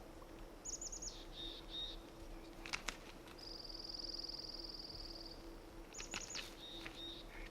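Small songbirds singing in the woods: a high phrase of quick falling notes heard twice, and between them a long, even, high trill lasting about two seconds. Two sharp clicks come just before the trill.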